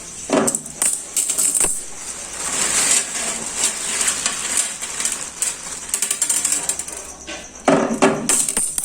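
Small stones clattering and rattling as they are poured and shifted into a glass fish bowl, with a burst of louder clinks about eight seconds in.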